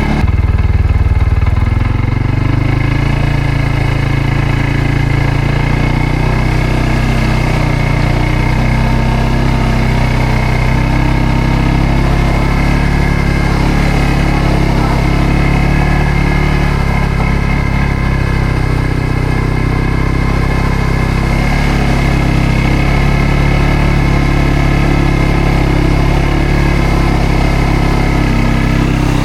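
CFMOTO CForce 600 ATV engine running at a steady speed, with a brief louder surge right at the start.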